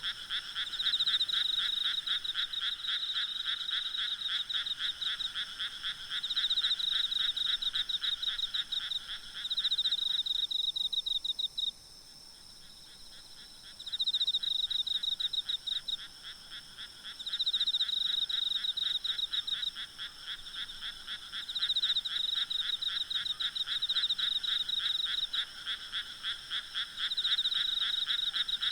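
Night chorus of frogs calling in rapid pulsed trills, with insects trilling steadily and more faintly at a higher pitch. The frog calling breaks off for a couple of seconds about eleven seconds in, then resumes.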